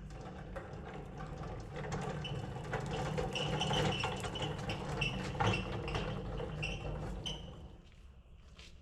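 Floor jack being rolled across a concrete shop floor with a gas tank on it: its wheels rumble and its metal parts clatter and squeak, dying away near the end.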